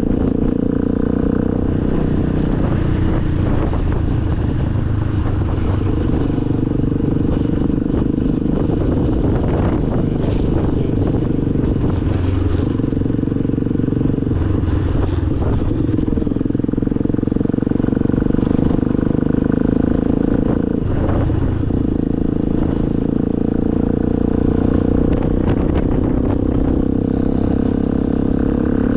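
Motorcycle engine running at a steady cruising pitch, heard from the bike itself, with a few brief clattering knocks along the way.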